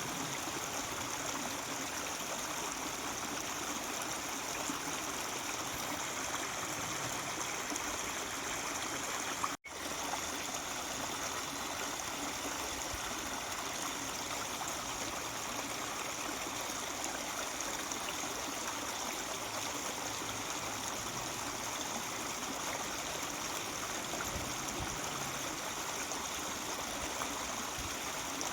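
Mountain stream running and murmuring steadily over rocks, with a split-second drop in the sound about ten seconds in.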